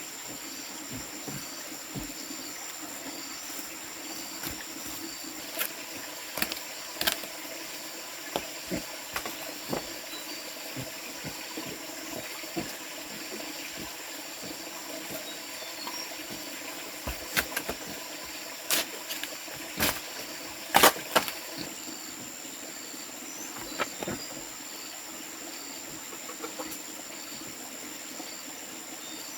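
Outdoor ambience of insects: a steady high-pitched drone with a faint chirp repeating about once a second. Scattered sharp clicks and knocks come through it, most of them in the second half.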